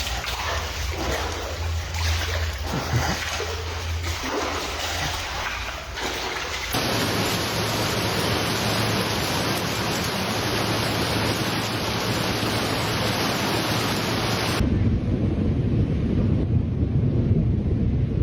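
Steady noise of heavy rain and rushing floodwater, changing abruptly twice as the footage cuts, the last stretch deeper and rumbling.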